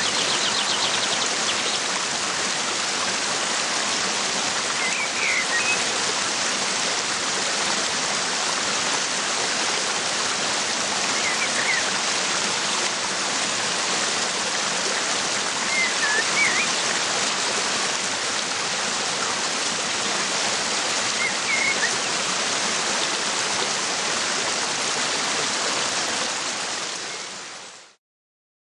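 Waterfall rushing steadily, with a bird giving short chirps about every five seconds. The sound fades out near the end.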